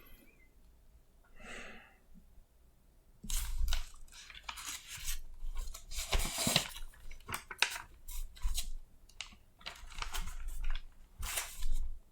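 Close-up rustling and crinkling handling noises in irregular bursts, starting about three seconds in.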